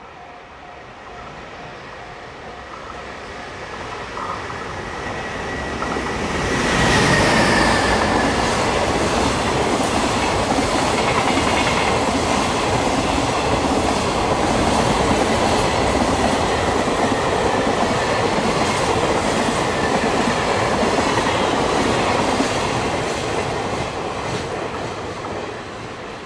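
A JR Freight container train hauled by an EF510 electric locomotive passes at speed. It grows louder as it approaches, and the locomotive goes by about seven seconds in with a high whine that dips in pitch. A long string of container wagons then clatters past with rhythmic wheel clicks, fading near the end.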